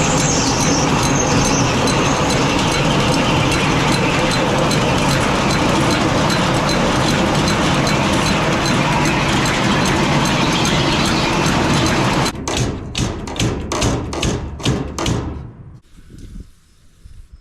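Silage cart's drive mechanism running loudly with a steady mechanical clatter and hum. About twelve seconds in it breaks into several short stop-start bursts, then stops.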